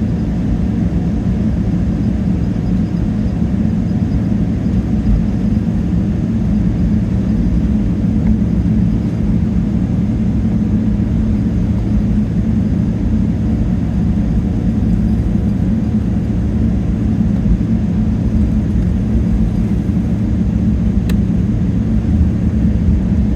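Steady low drone inside the cabin of a Boeing 777-300ER in flight, made up of GE90 engine noise and airflow.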